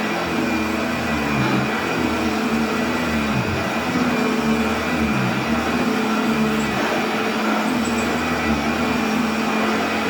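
Goblin Model 104 upright vacuum cleaner running steadily, its motor pitch dipping and rising a little as it is worked over a rug. It is moving a lot of air.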